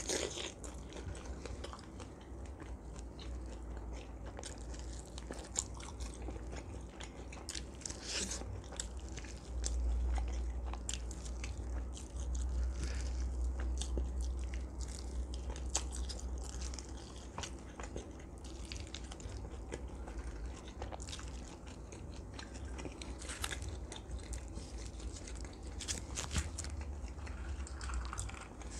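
Close-miked chewing and biting of roast duck meat and skin, with many short wet mouth clicks and smacks, over a low steady hum.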